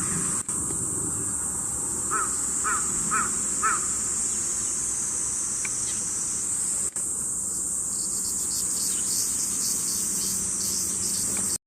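Steady high-pitched insect chorus, with a crow cawing four times in quick succession about two seconds in.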